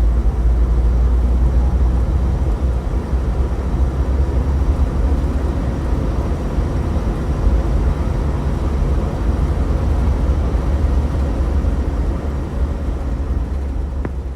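A steady, loud low rumble of noise with no clear pitch, beginning to fade near the end.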